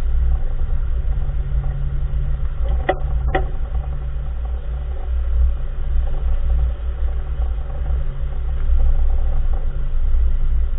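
2014 Nissan March on the move: a steady low road-and-running rumble, with two sharp knocks about half a second apart about three seconds in, the kind of clunk the owner traces to the front wheel.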